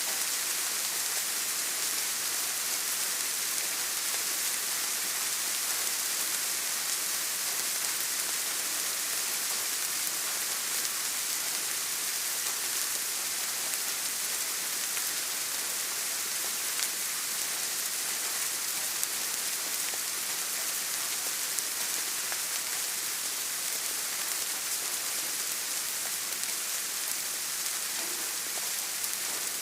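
Steady rain falling, a constant high hiss with a few faint drop ticks.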